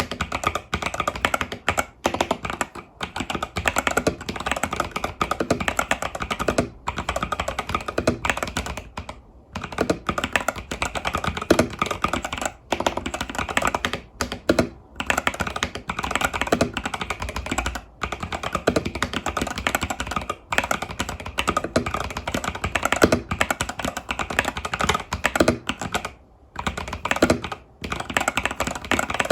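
Epomaker TH80 Pro mechanical keyboard with Epomaker Budgerigar tactile switches and stock keycaps being typed on quickly and continuously, key after key, broken by a few brief pauses.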